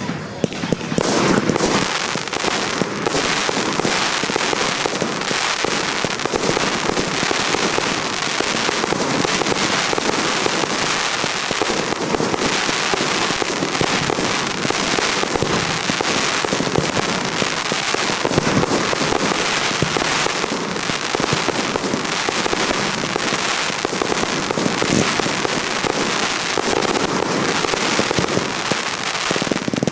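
Professional fireworks display: a dense, unbroken barrage of firework bursts and crackling.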